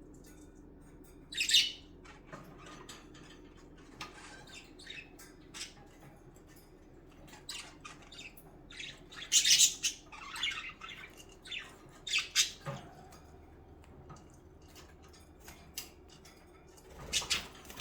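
Pet budgerigars chirping and squawking in short, scattered calls, a few of them louder and sharper than the rest.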